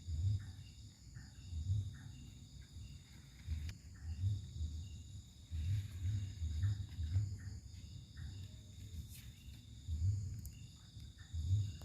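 Insects trilling steadily in the background, with a low pulsing rumble about every second and a half that is the loudest sound.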